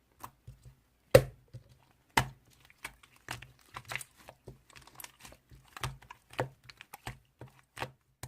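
Irregular clicks and taps with some crinkling, like small objects being handled close to the microphone, with two louder knocks about one and two seconds in.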